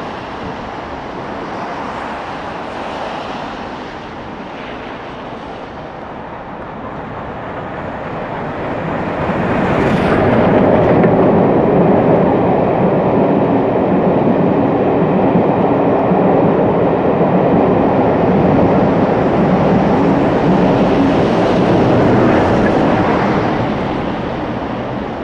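Steam-and-diesel charter train, with ex-LMS Black Five 44871 and Class 47 diesel 47815, approaching and passing close beneath. The sound grows about nine seconds in, with a brief sharp burst about a second later. The locomotive and the long rake of carriages then run loud and steady over the rails for about twelve seconds before fading near the end.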